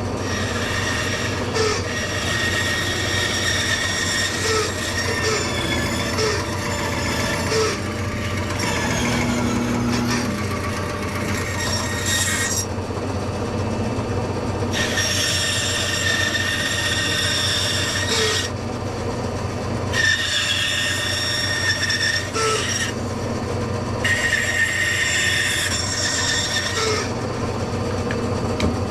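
Stationary woodworking power tool running with a steady motor hum while the edge of a wooden guitar body is held against it, giving a loud rasping squeal. The squeal stops and starts several times as the wood is pulled away and pressed back, with pauses a few seconds long about halfway through and near the end.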